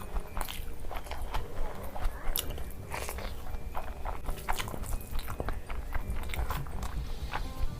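A person biting and chewing food close to the microphone, with irregular sharp crunches.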